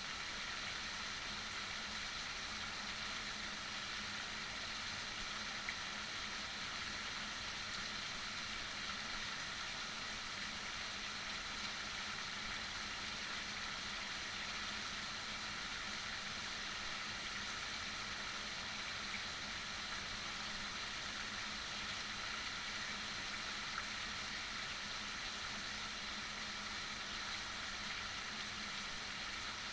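Heavy rain falling, a steady, even hiss with a couple of faint single ticks.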